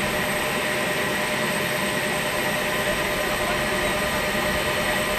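Sikorsky CH-53E Super Stallion's turbines running steadily: a loud, even rush with a thin high whine and no change in speed.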